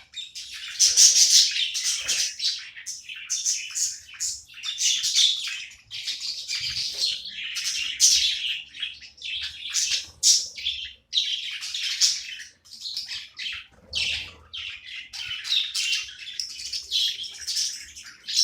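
Budgerigars chirping and warbling continuously in a fast, chattering stream of high notes.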